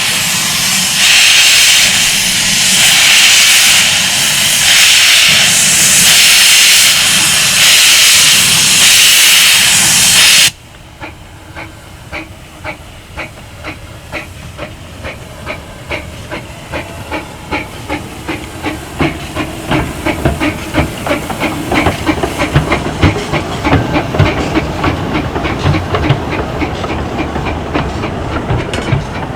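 15-inch gauge steam locomotive hissing loudly, the steam coming in slow surges, for about ten seconds. Then it cuts suddenly to the train running with a fast, regular clatter that grows louder.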